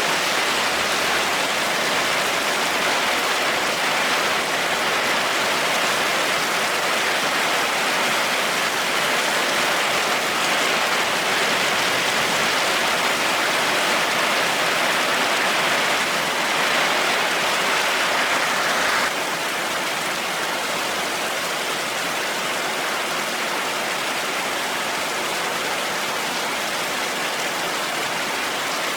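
Heavy rain falling steadily, a dense even hiss that drops suddenly to a slightly quieter level about two-thirds of the way through.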